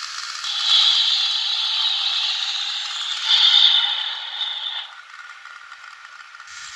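Battery-powered Tomy Plarail toy train set running: a whirring, clattering mechanical noise of the small motor and plastic parts, which swells twice and then drops off about five seconds in.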